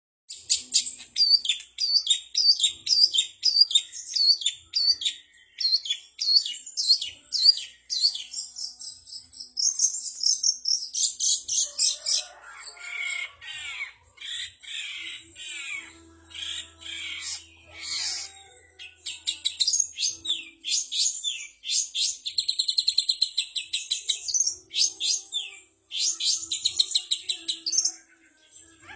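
Songbirds calling and singing, a mixed recording of the kind used as song-training material for a long-tailed shrike. It opens with a quick run of repeated high down-slurred chirps, then lower chattering calls in the middle, then fast rattling trills near the end.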